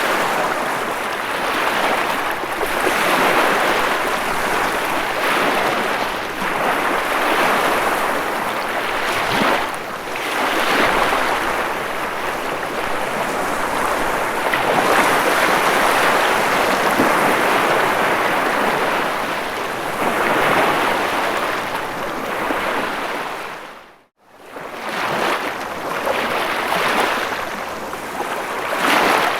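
Ocean waves breaking and washing in, a steady rush of surf that swells and eases every few seconds. The sound cuts out briefly about 24 seconds in, then resumes.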